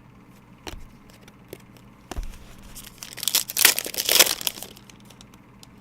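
Crinkling and tearing of trading-card pack wrapping being handled, loudest for about a second and a half from around three seconds in, after a couple of light knocks.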